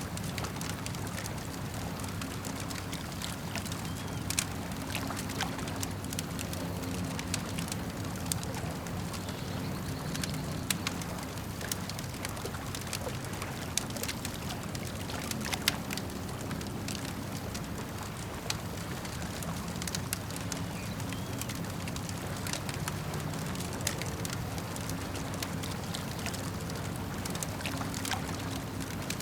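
Campfire crackling, with scattered sharp pops, over a steady wash of lake water gurgling and lapping.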